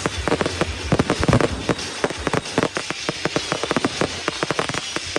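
Fireworks going off: a rapid run of sharp crackling pops, several a second, with a heavier boom about a second in.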